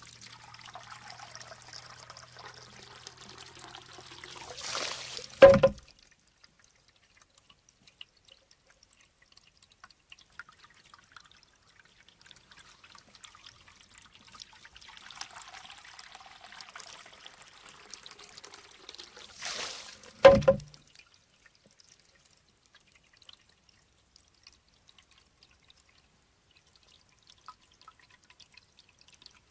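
Shishi-odoshi bamboo water fountain: water trickles and pours as the bamboo tube fills and tips, then the tube knocks sharply against its stone. The cycle happens twice, with knocks about five seconds in and some fifteen seconds later.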